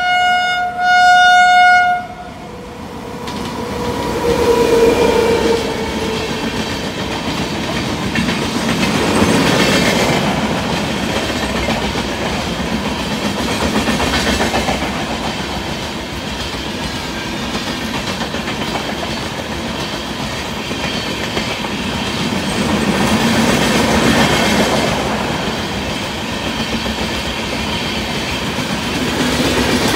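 Electric locomotive's horn sounding twice, a short blast then a longer one, followed by the express train passing at speed: a long run of wheel clatter and rushing coaches that swells and eases as the carriages go by.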